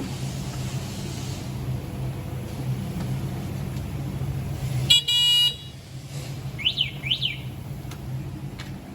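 Electric citycoco scooter's horn giving one short beep about five seconds in, over a steady low hum, followed by two quick rising-and-falling chirps.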